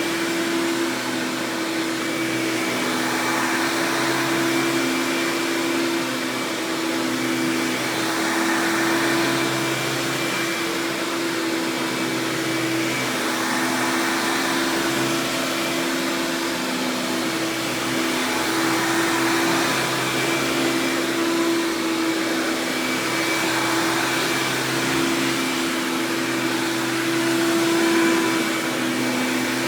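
Hoover Power Drive Supreme upright vacuum running steadily with its self-propelled drive on: a constant motor hum and airflow noise that swells slightly every few seconds.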